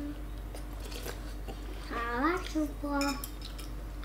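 Close-up eating sounds: chewing and small mouth and spoon clicks over rice porridge with pork offal. Short voiced sounds break in, one rising about two seconds in and another near three seconds.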